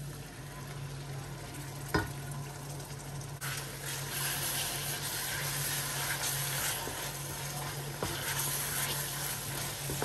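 Blended spice and scotch bonnet pepper paste frying in hot oil with onions and tomato paste in a stainless steel pan, sizzling as it is stirred with a wooden spoon; the sizzle grows louder about three seconds in, with a single tap near two seconds.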